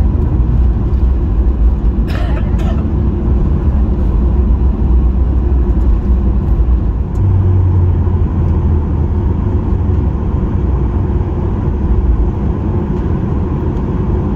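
Loud, steady low rumble of a Boeing 737's engines and airframe heard inside the cabin on the ground after landing. Two short falling sounds come about two seconds in, and the low rumble shifts slightly about seven seconds in.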